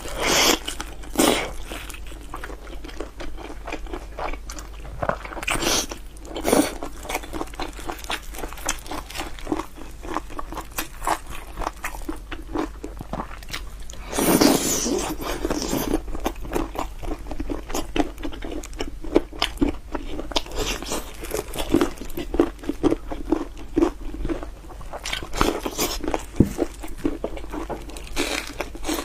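Close-up eating sounds: someone biting and chewing crunchy food, a steady run of small crackles broken by louder crunches, the biggest about halfway through.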